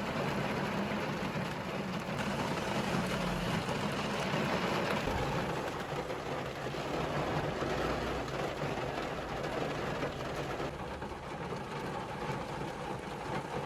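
Heavy rain over a running vehicle: a steady rushing noise with a low hum beneath it.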